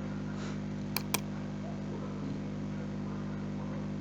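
Two quick sharp clicks about a second in, like a computer mouse double-click, over a steady low hum.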